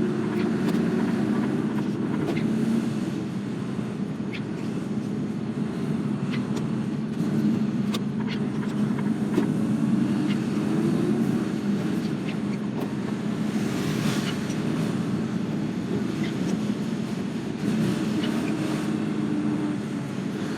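Articulated lorry's diesel engine running steadily as it drives, heard from inside the cab as a low, continuous hum, with scattered light clicks and rattles.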